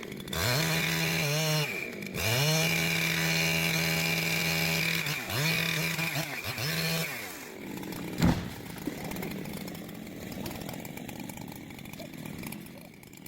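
Chainsaw revved at full throttle in four bursts, each rising to a steady high pitch and falling away again; the longest lasts about three seconds. A single sharp knock comes about eight seconds in, and the rest is quieter.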